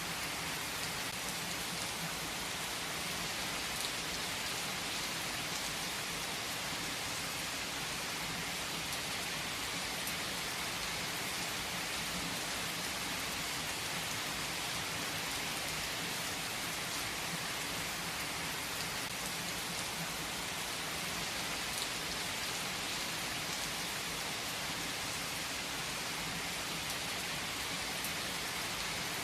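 Steady rain falling, an even hiss with a few faint drop taps here and there.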